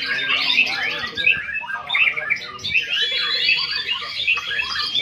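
Many white-rumped shamas (murai batu) singing at once, their songs overlapping in a dense, unbroken chorus of whistled notes, sweeps and harsh chatters.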